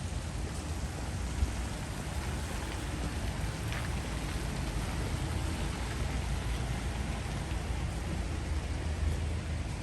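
Steady rain falling, an even hiss over a low rumble, with a sharp tap about a second and a half in and a smaller one near the end.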